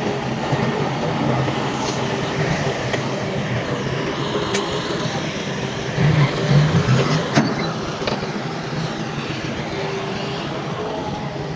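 Heavy earthmoving machinery running steadily, with two sharp metallic clanks, one a little before the middle and one a few seconds later, and a brief louder surge between them.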